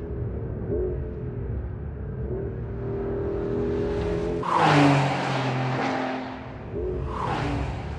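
Porsche 911 Carrera 4 GTS T-Hybrid's 3.6-litre flat-six engine running hard on track, its note bending briefly every couple of seconds, with a louder rush about halfway through.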